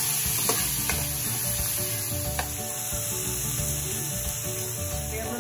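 Chopped tomatoes sizzling in hot oil in a wok with sautéing garlic, onion and ginger: a steady hiss of frying, with a couple of brief knocks.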